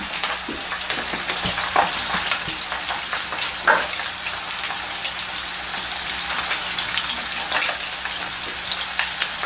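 Rolled chicken galantines sizzling in hot oil in a non-stick frying pan as they start to sear and seal: a steady hiss with scattered crackles and pops.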